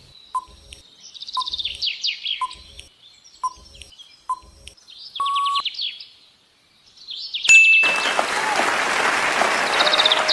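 Quiz countdown sound effect: a short tick about once a second with birds chirping high over it, ending in a brief beep about five seconds in. After a short gap, a loud steady rush of noise takes over near the end.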